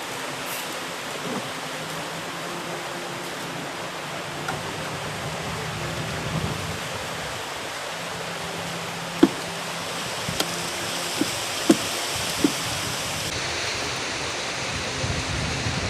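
Steady rushing outdoor noise, with a few sharp clicks or taps in the second half.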